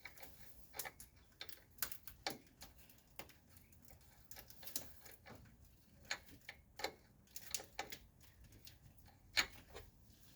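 Scattered light metallic clicks and clinks, irregular in spacing, of a socket and ratchet being tried on and swapped at the strut's top mounting nuts while hunting for the right socket size.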